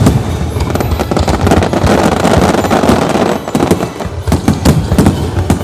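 Fireworks going off in quick succession: many sharp bangs, with a dense spell of crackling in the middle.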